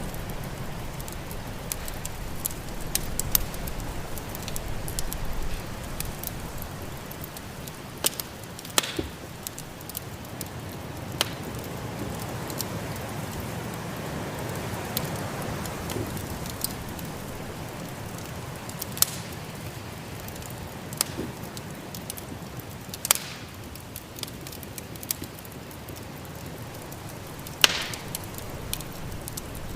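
Wood fire crackling, with scattered sharp pops, over the steady rushing noise of a snowstorm's wind.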